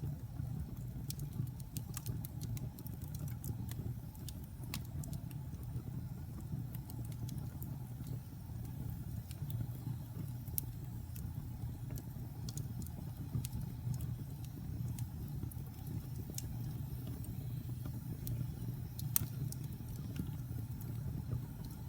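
Wood fire burning in a fireplace: a steady low rumble of flames with scattered sharp crackles and pops from damp and pine logs heating up, one louder pop near the end.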